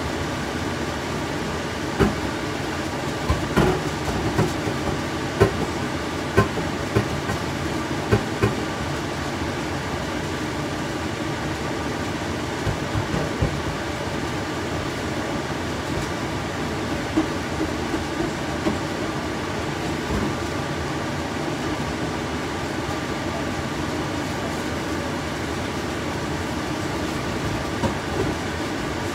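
Beef, garlic, onion and ginger sizzling in oil in a stainless steel stockpot: a steady sizzle with scattered sharp pops, most of them in the first half.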